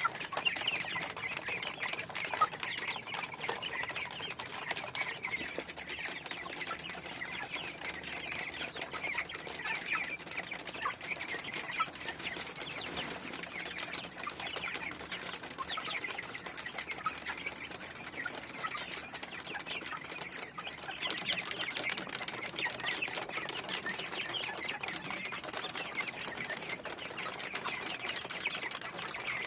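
A flock of chickens calling continuously, many short clucks and chirps overlapping, growing busier about two-thirds of the way through.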